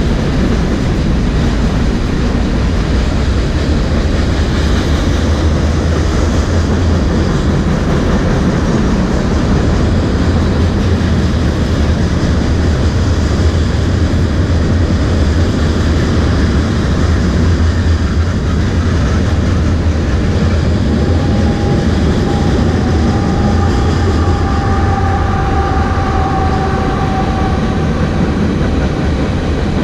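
Train rolling past at close range: a steady loud rumble and clatter of railcars on the track. A faint high squeal joins in about two-thirds of the way through.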